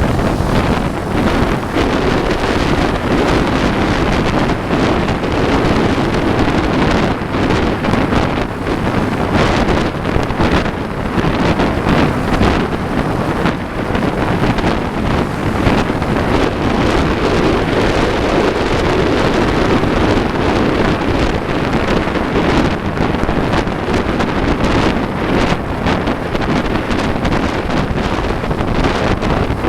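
Strong wind buffeting the microphone of a camera on a moving motorcycle, with a steady low rumble underneath.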